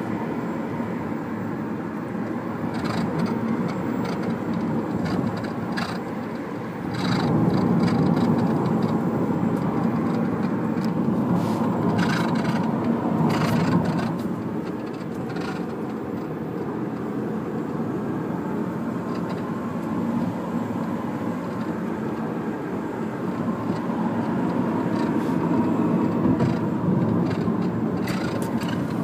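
Mitsubishi Lancer EX on the move, with steady road and tyre noise and scattered short knocks and rattles from the suspension: the abnormal underbody noise the owner is chasing.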